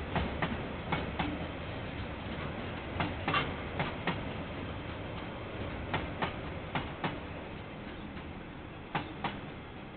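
KiwiRail train wagons rolling past, their wheels clacking over a rail joint in pairs of knocks about a quarter-second apart, roughly one wagon every three seconds, over a low rumble that fades toward the end. Heard through a security camera's microphone.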